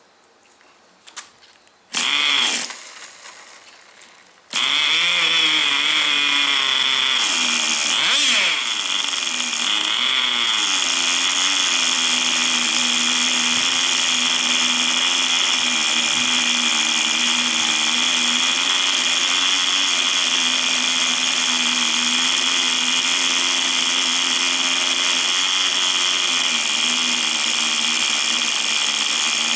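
Tamiya TGS 1/10 nitro RC car's small glow engine being started with its recoil starter: it fires briefly about two seconds in and dies, then catches about four and a half seconds in and runs steadily, its pitch wavering for a few seconds before settling at idle.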